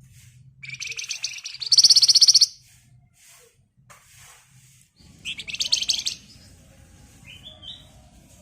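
Flamboyan (wergan Jawa) songbird singing two loud, rapid rattling trills a few seconds apart, then a short rising phrase near the end.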